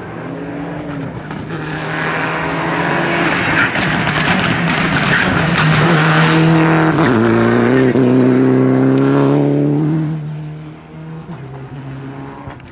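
Rally car driven hard on a special stage: the engine note grows louder as it approaches, is loudest for a few seconds with a drop in pitch as it passes, then fades away.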